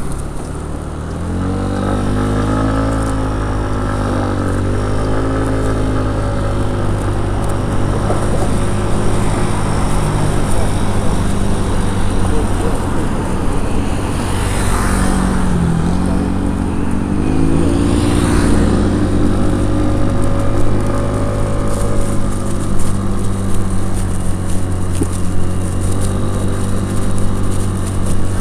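A motor vehicle running, with a steady low drone and an engine note that rises and falls in pitch a few times.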